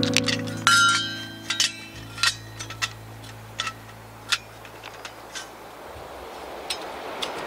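A series of light clinks and taps, like dishes or cookware being handled, some ringing briefly, over the fading held notes of background music.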